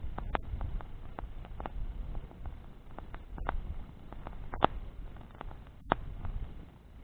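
Bonfire of burning branches crackling with irregular small pops, and two louder sharp snaps a little past halfway, over a low steady rumble.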